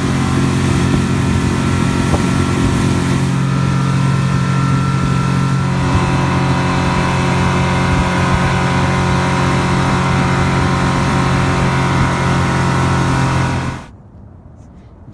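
Motorboat engine running steadily at speed, under a loud rush of wind and water. It cuts off suddenly near the end.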